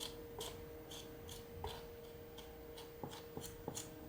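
Light, irregular clicks and scrapes of lightweight filler being spread onto a model plane's fuselage nose, about a dozen small ticks over a few seconds, with a faint steady hum underneath.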